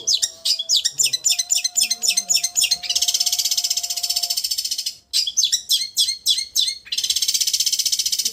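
Long-tailed shrike (cendet) song in the trembling 'raja getar' style: high runs of sharp chirps, several a second, alternating with dense fast trills, with a short break about five seconds in.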